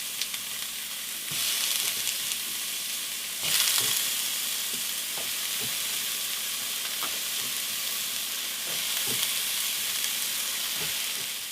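Diced potatoes, carrots and onions sizzling in hot oil in a frying pan, with scattered small clicks of a utensil stirring them. The sizzle swells louder from about a second in for a few seconds, then settles into a steady hiss.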